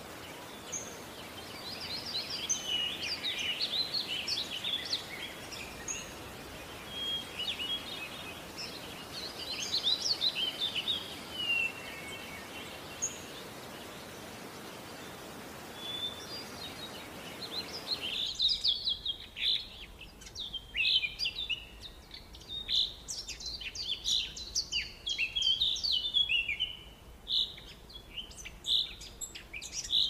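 Several birds chirping and whistling over a steady background hiss. About eighteen seconds in, the hiss cuts away and the chirping comes thicker.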